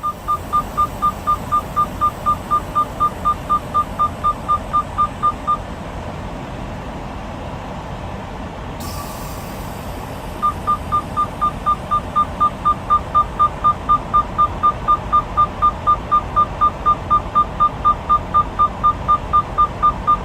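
Semi-truck low air pressure warning buzzer beeping rapidly and steadily, about four beeps a second, over the diesel engine idling. It is set off by an air leak in the brake system. The beeping stops for about five seconds midway, with a short hiss of air just before it starts again.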